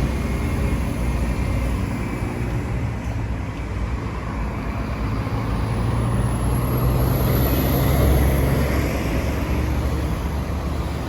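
City street traffic: motor vehicle engines running and passing with a steady low rumble, loudest about eight seconds in. A faint high whine runs from about six to nine seconds.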